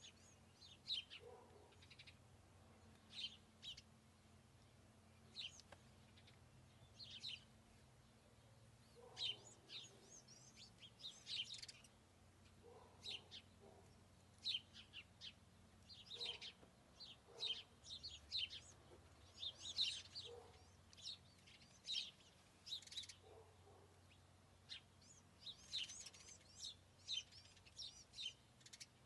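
Small birds chirping faintly: many short, high chirps, often several a second, with a faint steady low hum beneath.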